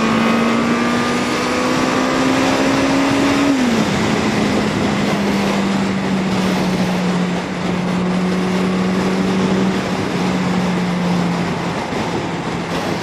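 Yamaha XJ750 Seca's inline-four engine pulling hard in a low gear, its note climbing for a few seconds before it drops with an upshift and settles into a steady cruise, under heavy wind rush. The revs are held high on purpose to clear carburettors treated with Sea Foam.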